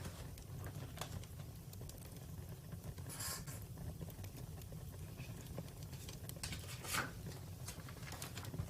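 Wood campfire crackling: irregular small pops and snaps over a steady low rumble. The loudest are a short crackling burst about three seconds in and a sharp pop about seven seconds in.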